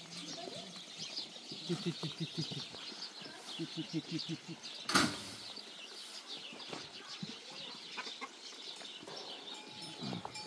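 Farmyard birds: continual high chirping, with two quick runs of low clucking about two and four seconds in, and a single sharp knock about five seconds in.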